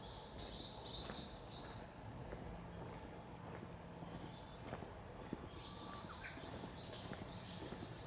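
A small bird singing in runs of quick, high repeated notes, three runs in all, over a low steady outdoor background with a few faint clicks of footsteps.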